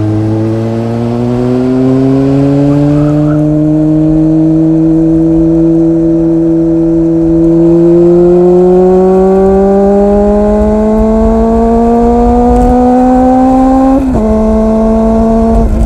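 Honda CB400 Super Four's inline-four engine pulling uphill, its revs climbing steadily for about fourteen seconds, then falling sharply at an upshift near the end and starting to climb again. A low rumble of wind on the microphone runs underneath.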